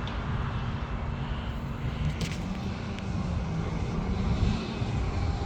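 Steady low rumble of distant engine noise, with a couple of faint clicks about two seconds in.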